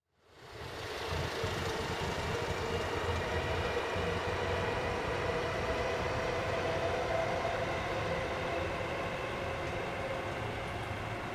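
Nanbu Line electric commuter train running along an elevated viaduct: a steady rumble with a hum through it, fading in over the first second.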